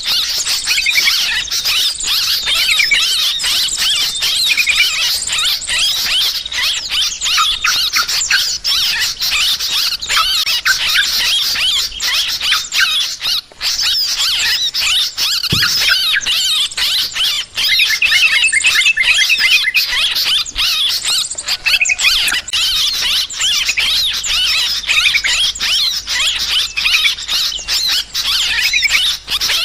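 Flock of yellow-vented bulbuls (trucukan) in agitated, non-stop chattering: many overlapping sharp, high chirps, with only a brief break about halfway through.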